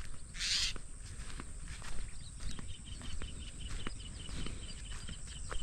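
Birds calling in open farmland; in the second half one bird gives a rapid run of short high chirps, about five a second. A brief rustling hiss sounds about half a second in.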